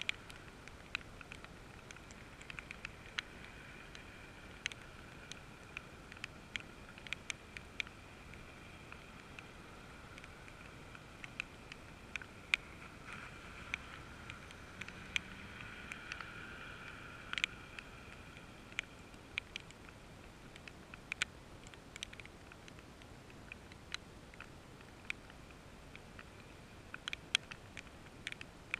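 Rain: scattered raindrops ticking irregularly close by, over a steady wet hiss. A car passes on the wet road about halfway through, its tyre hiss swelling and fading.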